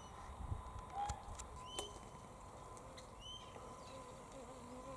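Faint outdoor background with a few short, faint bird chirps, and a couple of faint clicks.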